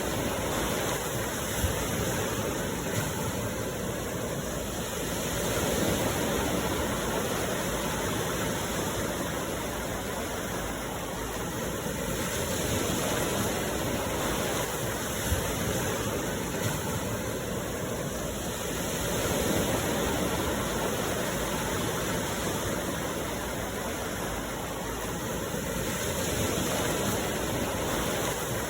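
Sea waves washing ashore: a continuous rush that swells and eases about every six or seven seconds, with a few faint knocks.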